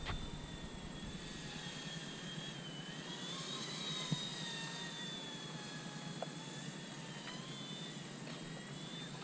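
Eachine E120 RC helicopter in flight: the high whine of its electric motors and rotors, the pitch drifting up and down as it banks and speeds up, with a few faint ticks.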